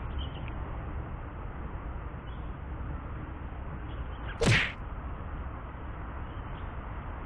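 A fishing rod swished hard through the air in a single cast: one short whoosh about four and a half seconds in, over a steady low background rumble.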